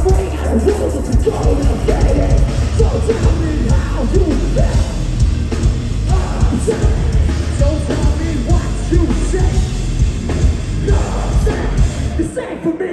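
Live metal band playing loud, with heavy drums and bass and shouted, screamed vocals; the low end drops out briefly near the end.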